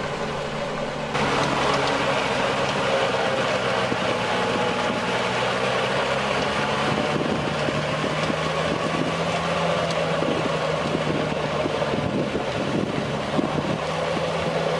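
A motor vehicle's engine running steadily, with a sudden change in the sound about a second in.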